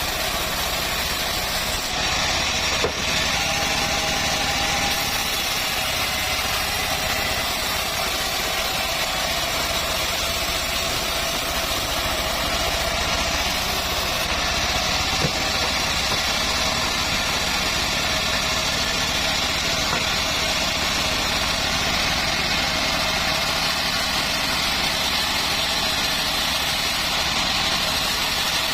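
Home-built bandsaw mill running steadily at an even pitch, with two faint clicks, one about three seconds in and one about halfway through.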